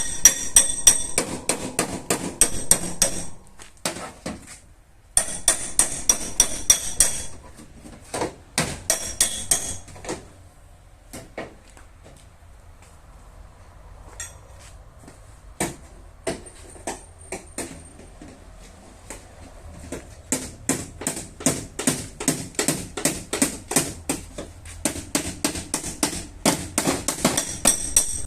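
Hammer tapping the sheet metal of a car's rear fender in rapid runs of about five strikes a second, the panel ringing with each blow. The tapping thins to a few scattered taps through the middle, then picks up again in quick runs near the end.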